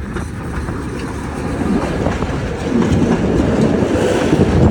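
Sóller's vintage wooden electric tram rolling along its rails, its wheels clattering on the track. The rumble grows louder from about halfway through.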